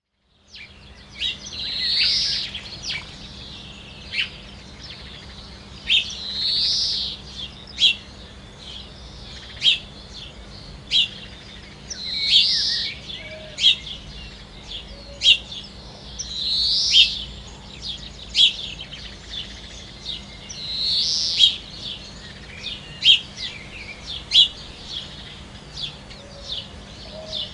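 Birds chirping: short, sharp chirps about once a second, with a longer, fuller call every four to five seconds, over a faint steady hum.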